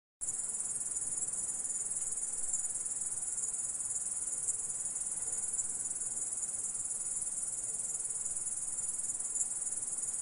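Stridulating insect: a steady, high-pitched, continuous buzzing trill that cuts in abruptly just after the start and holds evenly.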